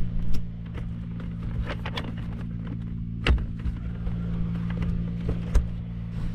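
Engine of a CMC tracked aerial lift running at a steady speed, with scattered sharp clanks and clicks from the machine.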